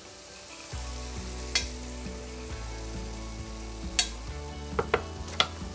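Beaten egg sizzling as it is poured over fried eggplant, onion and tomato in a hot frying pan, the sizzle starting under a second in. A few sharp clicks of utensil or bowl on the pan.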